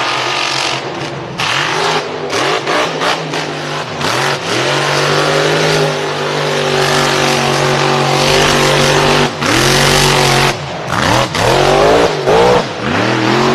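Off-road vehicle engine revving hard under load over a rough noise haze. It is choppy at first, then held at high revs for several seconds, then blipped down and up several times near the end.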